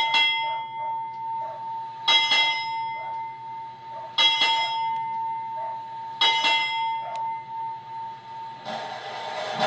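Ship's bell struck four times, about two seconds apart, each stroke ringing on: the bell rung as honours for an arriving official party. Band music starts near the end.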